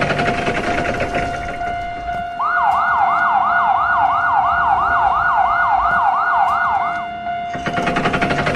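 Electronic alarm sound effects. A steady high tone runs under rapid clicking, and from about two and a half seconds a siren joins for some four seconds, yelping up and down about three times a second.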